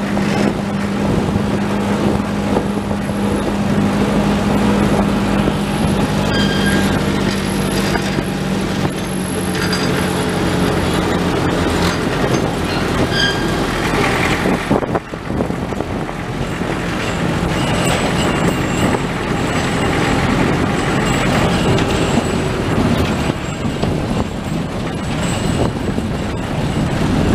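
Narrow-gauge works train rolling slowly along the track, with a diesel engine running steadily and rattling and clanking from the wagons loaded with rails. The engine's low steady hum fades about halfway through while the rolling noise carries on.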